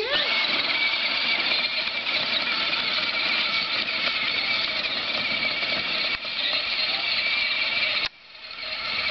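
Children's John Deere ride-on tractor running, its electric motor and gears whining steadily. The whine cuts off suddenly about eight seconds in and starts building again near the end.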